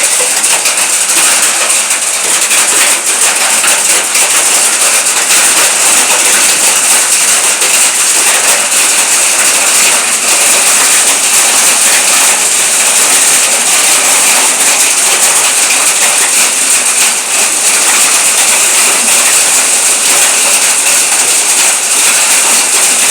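Heavy rain falling steadily during a storm, a loud, dense hiss that does not let up.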